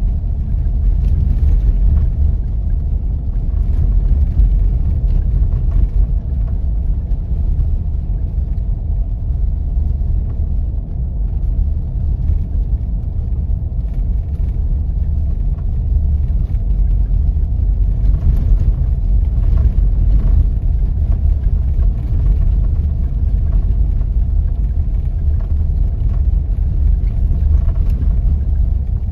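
4x4 vehicle driving on snowy roads: a steady low rumble of engine and tyres with a faint steady hum above it and a few light knocks about two-thirds of the way through.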